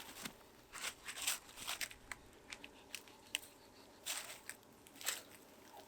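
Irregular crinkling and rustling in short clusters, with a few sharper crackles.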